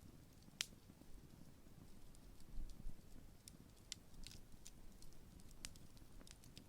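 Large wood campfire burning down, giving scattered sharp crackles and pops over a faint low rumble, the loudest pop less than a second in.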